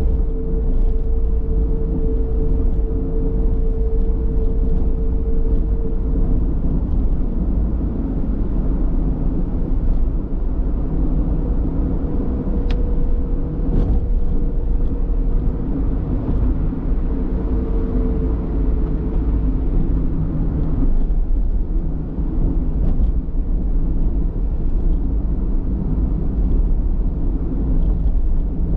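Car driving along a road: steady engine and road rumble, with a steady droning tone in the first six seconds and again from about twelve to nineteen seconds.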